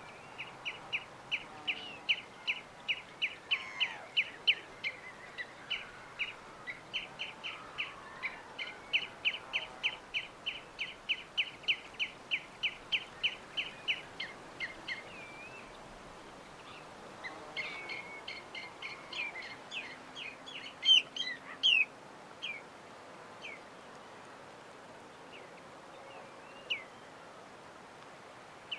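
A bird chirping: a long, steady run of short sharp notes, about three a second, for the first fifteen seconds, then a denser flurry of mixed chirps around twenty seconds in, then a few scattered single notes. A faint steady hiss runs underneath.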